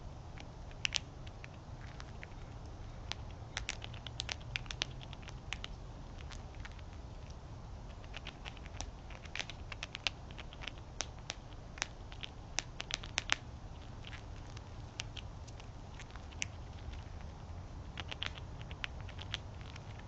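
Animals feeding on scattered food: irregular quick clicks and taps, coming in clusters, over a low steady rumble.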